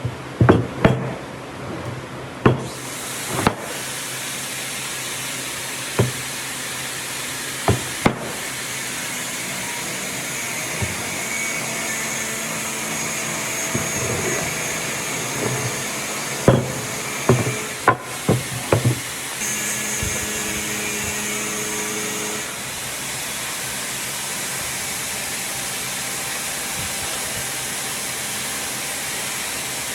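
Workshop noise: a steady hiss with a series of sharp knocks and taps, several in the first few seconds and a quick cluster of them around the middle.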